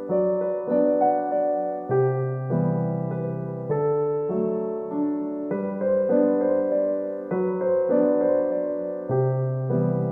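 Background music: a gentle solo piano piece, soft sustained chords with a slow, even pulse.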